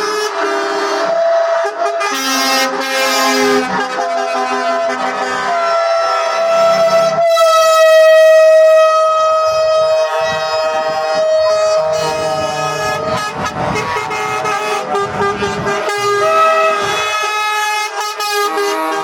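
Truck air horns blaring: several overlapping held tones that change pitch in steps, loudest about eight seconds in.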